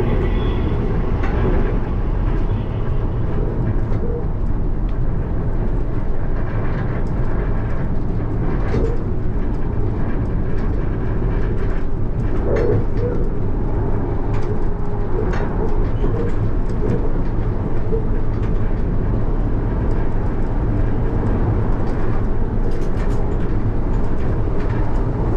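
Alstom Citadis tram running along its track, heard from the driver's cab: a steady rumble of wheels and running gear with a few light clicks.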